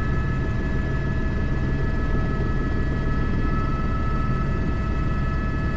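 Airbus H125 (AS350 B3) helicopter running steadily, its single turboshaft engine and rotor heard from the cockpit: a constant low throb under steady high whining tones from the turbine and gearbox.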